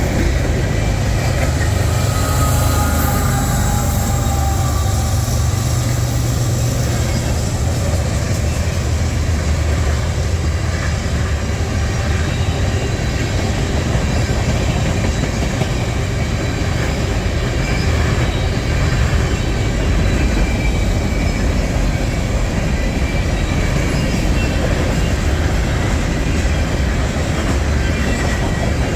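Freight train rolling past: a steady rumble of steel wheels on rail, with faint high wheel squeals now and then, most in the first few seconds.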